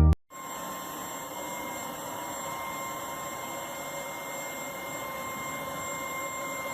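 Tineco A10 Hero cordless stick vacuum's motor running steadily: an even rushing noise with a fixed high-pitched whine over it.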